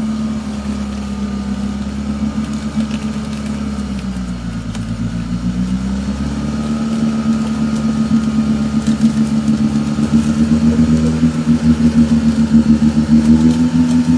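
An engine running steadily, its pitch dropping about four seconds in and rising back a couple of seconds later, then growing louder with a pulsing beat over the second half.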